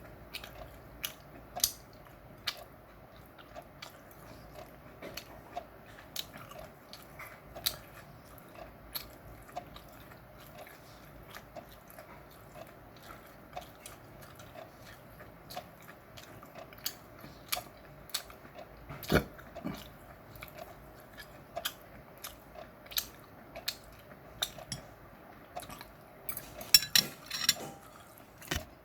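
Close-miked chewing of chewy meat, with irregular wet mouth clicks a few times a second. Near the end comes a quick burst of louder clicks and clatter.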